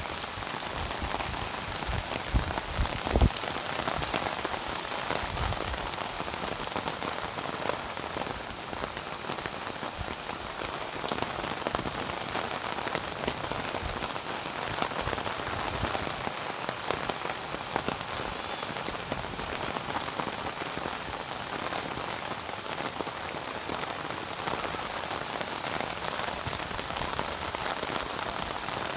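Steady rain pattering on surfaces, a dense hiss of many small drop hits, with a few louder knocks about two to three seconds in.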